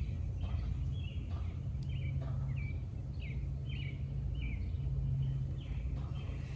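A bird chirping over and over in short falling notes, about two a second, over a steady low hum.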